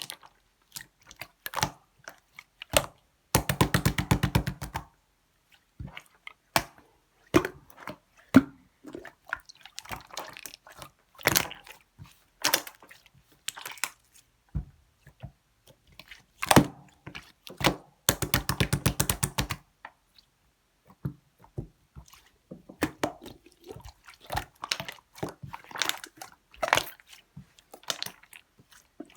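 Pink pearl slime being squished and poked by hand, making scattered wet clicks and pops. Twice it gives a quick run of rapid, even clicks lasting about a second and a half.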